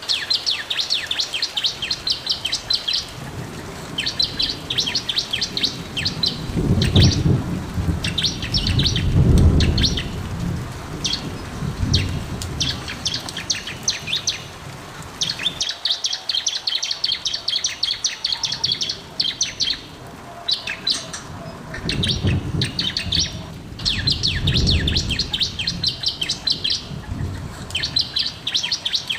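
Bar-winged prinia (ciblek) singing energetically, in fast trains of rapid high chirps that come in bursts of one to three seconds. Twice a low rumble swells and fades under the song, once before the middle and once past it.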